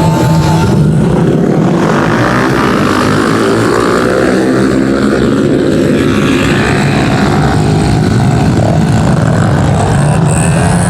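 A pack of pit bike engines revving hard together as the field leaves the start line, several engines overlapping with rising pitch in the first few seconds, then running on at high revs.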